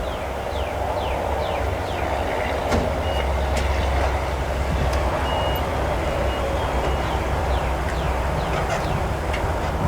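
Volvo S60's 2.5-litre turbocharged five-cylinder engine idling steadily, with a low, even rumble. Several short high-pitched beeps and quick falling chirps sound over it.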